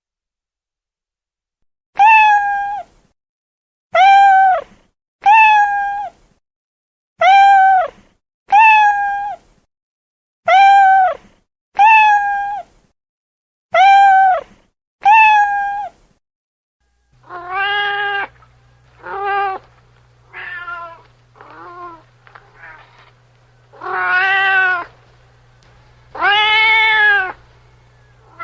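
Domestic cat meowing: nine short, alike meows about one to two seconds apart, then, over a steady low hum, a lower-pitched cat meowing about seven times, the last two calls longer and louder.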